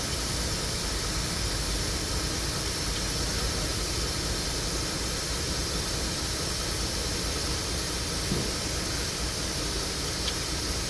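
Steady hissing background noise with a low rumble underneath, and a couple of faint clicks late on.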